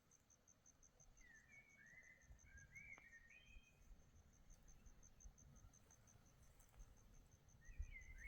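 Faint cricket chirping steadily, about five high pulses a second, with a few short bird call notes about a second in and again near the end.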